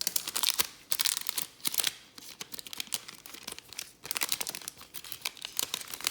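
Packaging of a trading-card mini box being torn open and crinkled, in repeated short crackly bursts.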